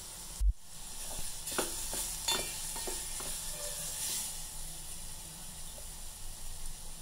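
Diced raw mango with mustard seeds frying in oil in a steel pot, sizzling steadily. A spatula scrapes and taps against the pot a few times in the first half, with a short low thump about half a second in.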